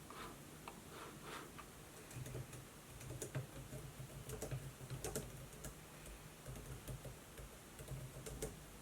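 Typing on a laptop keyboard: irregular runs of soft key clicks, over a faint low hum.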